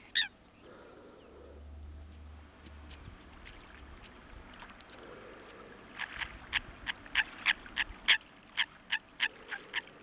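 Birds calling at a lake: faint high chirps at first, then from about the middle a run of short, repeated calls, about three a second.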